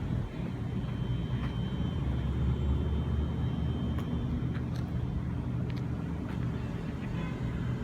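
Steady low rumble of a running vehicle, with a thin high whine over it for the first few seconds.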